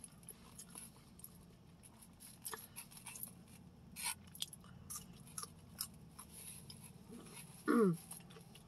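Close-up chewing and crunching of food, with scattered small clicks of the mouth. Near the end a short voiced sound falls in pitch.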